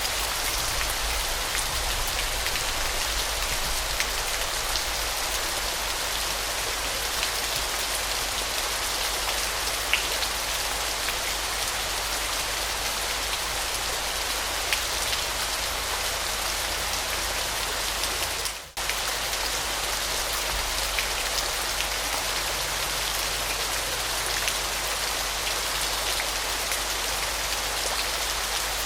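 Waterfall: a steady hiss of falling, splashing water with small pattering drops. It dips out for a split second about two-thirds of the way through.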